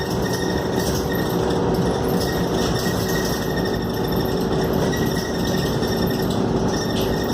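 Inside a Scania K280UD double-decker bus: the diesel engine runs steadily under a constant hum, with the body and interior panels rattling.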